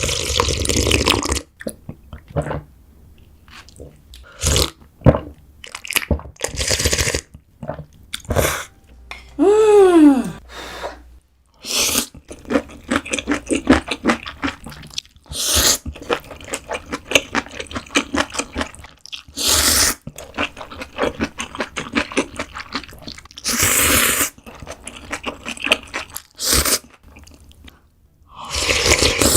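Close-miked eating sounds of noodle soup: wet slurps of noodles and broth and chewing, in quick irregular bursts. About ten seconds in there is a short voiced 'ah' that rises and falls in pitch.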